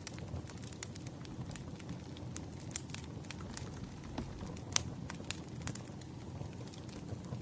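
Campfire burning, with a steady low rumble and irregular sharp crackles and pops from the burning wood.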